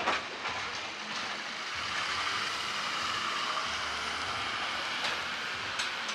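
A car driving past: a steady rush of engine and tyre noise that swells about two seconds in, with a short sharp sound at the very start.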